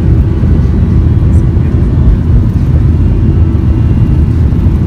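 Jet airliner cabin noise: a loud, steady low rumble of engines and rushing air with a faint constant hum over it.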